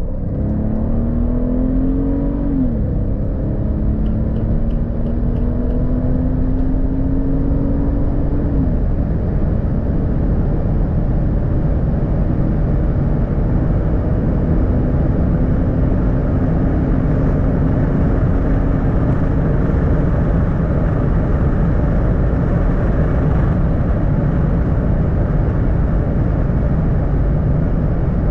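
Mercedes S65 AMG's 6.0-litre V12 biturbo accelerating hard under full load. Its pitch climbs, drops sharply with an upshift about three seconds in and again about eight seconds in, then rises slowly. Heavy wind and tyre roar builds with speed until it covers the engine.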